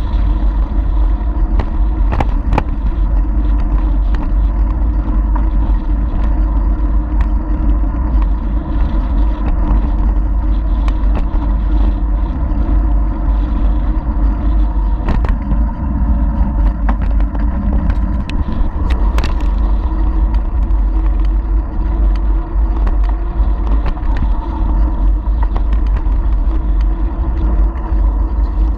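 Steady, heavy wind rumble buffeting a GoPro's microphone while riding a bicycle, with a few sharp knocks along the way.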